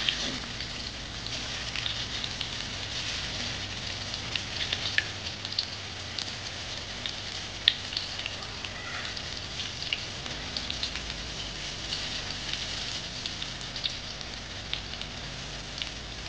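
Hot oil sizzling in a wok as pieces of fermented cassava (tape) deep-fry: a steady hiss full of small crackling pops, with one louder click about halfway through.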